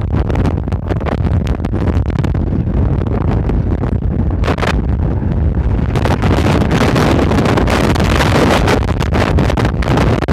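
Strong mistral wind buffeting the microphone: a loud, continuous gusting rumble that grows stronger and hissier about six seconds in.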